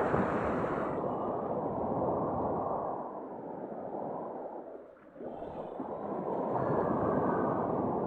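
Sea waves washing in on the shore, in long swells that rise and fall, with a lull about five seconds in before the next wave surges.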